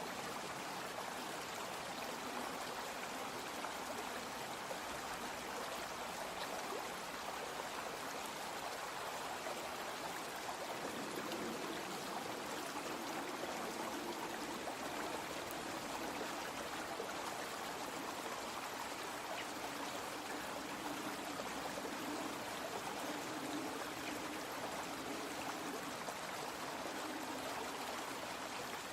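A small brook flowing steadily with an even rush of running water. A lower, uneven burbling joins about eleven seconds in.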